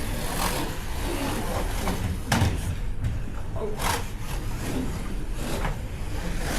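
Slot cars racing round the track, their small electric motors whirring steadily, with a sharp click about two seconds in.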